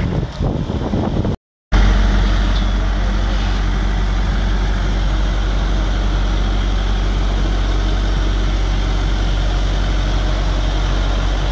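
Mitsubishi Pajero's engine idling steadily, heard close to the front wheel; the sound cuts out briefly about a second and a half in, then runs on evenly.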